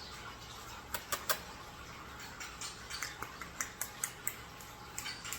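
A scatter of short, sharp clicks and ticks over a faint steady background. A few come close together about a second in, and more follow in the last couple of seconds.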